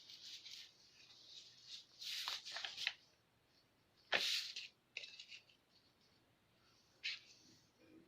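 Marking on a paper pattern sheet: a few short, scratchy strokes and rustles of paper, the loudest about four seconds in.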